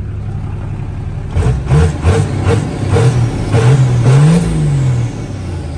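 Ford Galaxie's engine idling, then revved in a run of short blips followed by a longer rise and fall in pitch, heard from inside the car's cabin.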